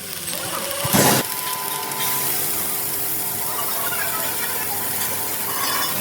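Mechanical workshop noise: a short loud clatter about a second in, then a steady hiss with a faint whine under it.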